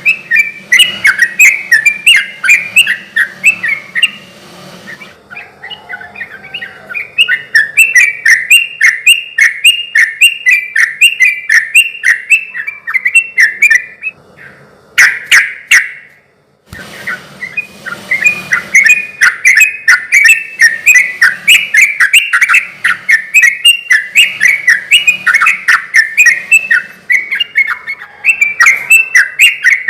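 Yellow-vented bulbul (trucukan) singing a long run of quick, loud, chattering notes. The song thins out about four seconds in, and breaks off for a moment about sixteen seconds in before starting up again.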